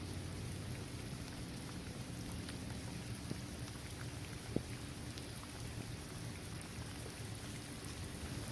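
Steady rain falling on a paved basketball court, trees and grass, with scattered single drops ticking through the hiss. One drop lands louder, about halfway through.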